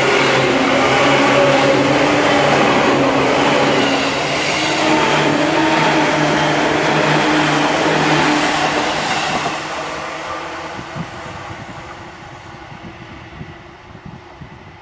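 Seibu 2000-series electric commuter train accelerating away from a station and passing close by: the traction motors whine in several tones that rise slowly in pitch over the rumble of wheels on rail. The sound fades from about ten seconds in as the train draws away.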